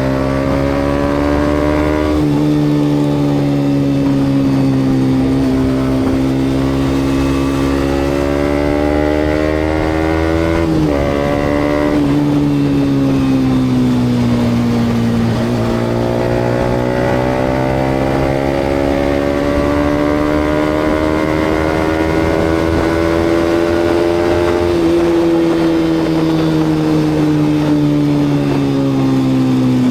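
Yamaha MT-125's 125 cc single-cylinder four-stroke engine through a GPR aftermarket exhaust, heard while riding, with road and wind noise. The revs climb slowly in gear, dip sharply at a gear change about eleven seconds in and sag for a few seconds, then build again, with further quick changes near twenty-five seconds and at the end.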